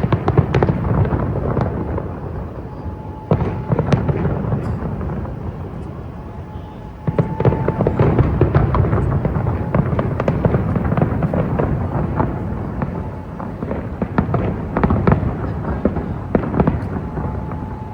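Aerial fireworks display: dense crackling and popping bursts in continuous volleys, with heavier barrages starting about three seconds in and again about seven seconds in.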